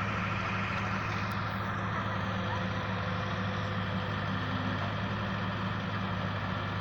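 Heavy diesel engine running steadily at an even speed, a deep constant hum.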